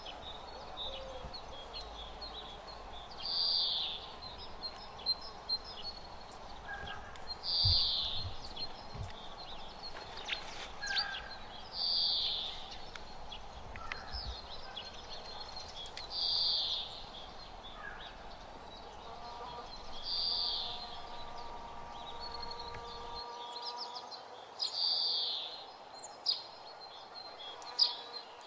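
A bird giving a short, high call over and over, about once every four seconds, over steady outdoor background noise with a few small clicks.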